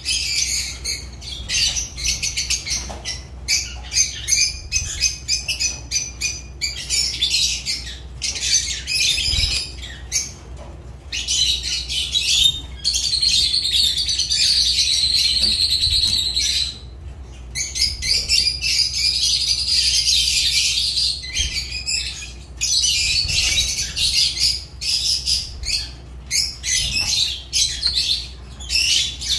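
Lovebirds chattering, with rapid high-pitched chirps and squawks coming in quick runs and two longer unbroken stretches of chatter midway through.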